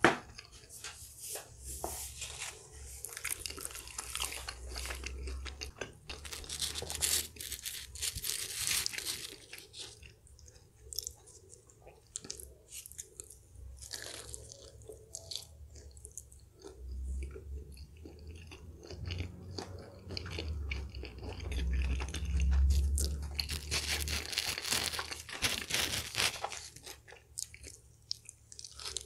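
Close-up eating sounds of someone biting into and chewing a slice of pizza, crunching on the crust in bursts with quieter chewing between. A low rumble of bumps comes about two-thirds of the way in.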